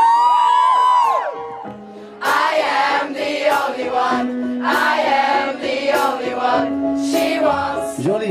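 Live rock band with singing: a long held sung note, a short lull, then singing over the band from about two seconds in.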